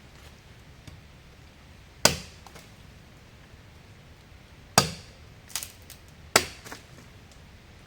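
Wood being chopped with a hatchet: three sharp strikes about two and a half, then one and a half seconds apart, with a lighter knock between the last two, over a faint steady hiss of rain.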